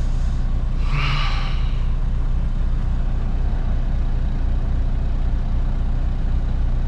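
Semi truck's diesel engine running with a steady low rumble, heard from inside the cab, with a brief hiss about a second in.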